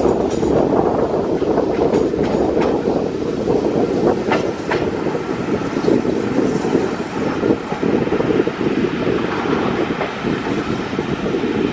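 British Railways Mk1 coach running along the line: a steady rumble with the wheels clicking over rail joints, and a few sharper clicks a little over four seconds in.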